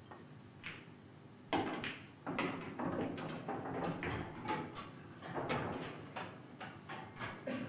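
Pool balls clacking and knocking repeatedly at irregular spacing, starting with a sharp knock about one and a half seconds in.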